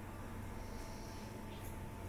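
Faint high bird chirps, one short call about half a second in and a brief one near the end, over a steady low hum.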